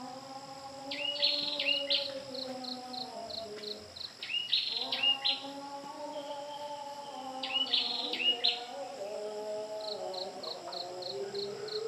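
Wild birds calling: bursts of a few sharp, high notes several times, and between them quick runs of short high chirps, about four a second. A steady high insect buzz runs underneath.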